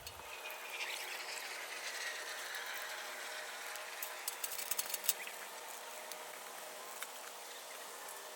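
Outdoor ambience with a faint whistle that falls in pitch over the first few seconds, then a short run of sharp clicks and snaps about four to five seconds in.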